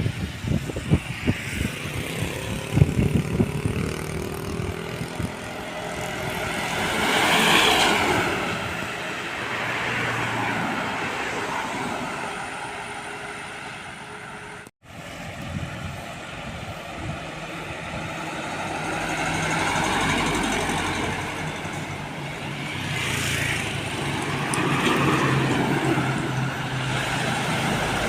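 Heavy diesel trucks and other traffic passing on a road, each pass-by swelling up and fading away, with a brief sharp dropout about halfway through.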